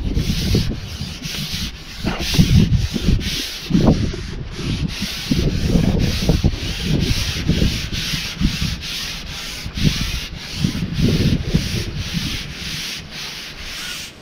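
Wind buffeting the microphone in uneven gusts, with a steady rhythmic rubbing or scraping of about two to three strokes a second.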